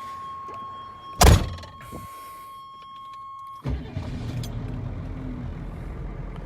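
A steady high warning tone sounds, broken about a second in by one loud thump. A little over three and a half seconds in, the tone cuts off and the 1986 Chevrolet C10's 6.2-litre diesel V8 starts at once and settles into a steady idle.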